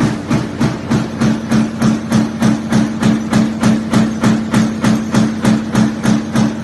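Sheet-metal stamping press running a die in continuous strokes, a regular hit about three to four times a second over a steady hum.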